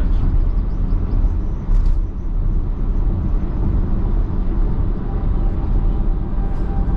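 Car interior road noise at highway speed: a steady low rumble of tyres on dry pavement and engine drone inside the cabin.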